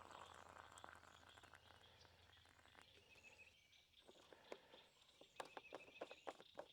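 Near silence with faint outdoor ambience; from about four seconds in, a run of faint, irregular clicks and ticks.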